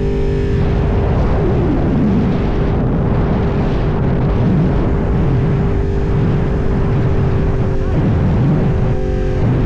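Yamaha R1 sport bike's inline-four engine running at a steady pitch under a heavy low rumble, with brief shifts in pitch about a second and a half in and again near the end.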